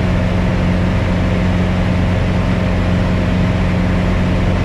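Piper Cherokee 180's four-cylinder Lycoming engine and propeller droning steadily in flight, heard inside the cabin. The engine is new and is being broken in at cruise power.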